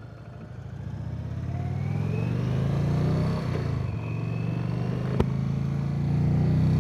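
Indian Chief Vintage motorcycle's V-twin engine accelerating, growing louder over the first few seconds, dipping briefly about three and a half seconds in, then running steadily. A single sharp click comes about five seconds in.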